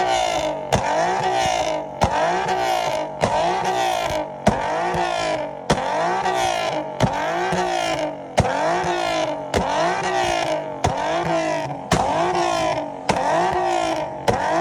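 Car engine revved over and over in an even rhythm, its pitch rising and falling, with a sharp click about every 1.2 seconds.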